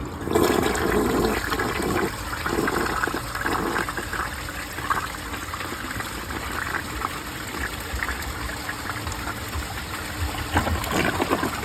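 1968 American Standard Cadet toilet flushing. A loud rush of water starts right away and is strongest for the first couple of seconds. It then settles into a steadier running and draining sound, with a louder stretch near the end.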